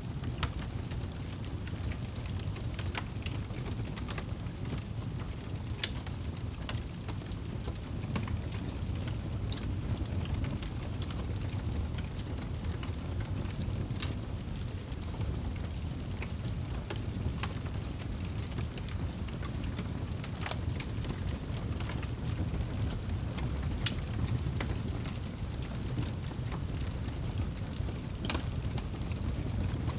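Wood fire burning in a fireplace: a steady low rumble of the flames with scattered sharp crackles and pops, a few louder snaps standing out.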